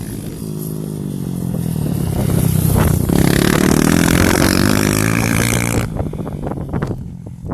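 Single-cylinder four-stroke trail motorcycle engine under throttle, growing louder about two seconds in and holding strong before dropping away sharply about six seconds in.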